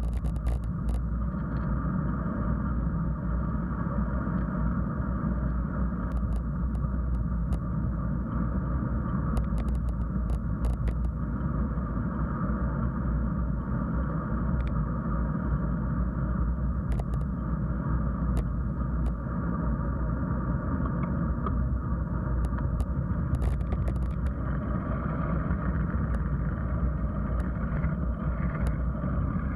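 Steady rumble of a bicycle being ridden: tyre and wind noise, with scattered light clicks.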